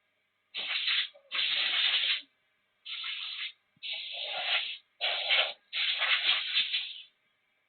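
Rough rubbing noise in six separate strokes, each lasting about half a second to a second, with short pauses between them.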